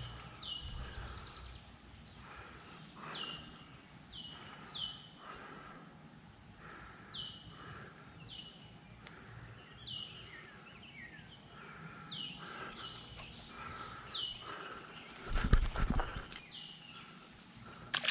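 A bird calling over and over, short notes that slide down in pitch, about one every second or so. A loud low thump about three quarters of the way through.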